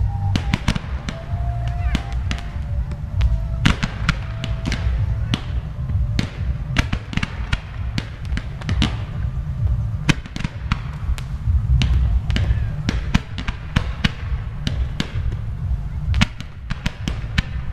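Fireworks display going off thick and fast: a continuous run of sharp bangs and crackles over a low booming rumble.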